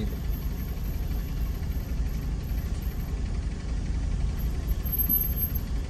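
Cars idling in traffic stopped at a red light: a steady low engine rumble.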